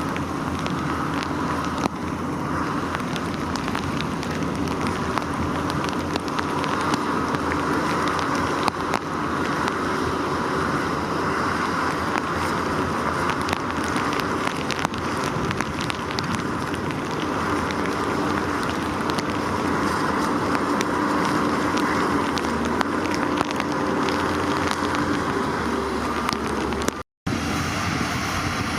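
Bulldozer's diesel engine running steadily under load, with many scattered sharp ticks and clanks over it. The sound breaks off for a moment near the end and resumes.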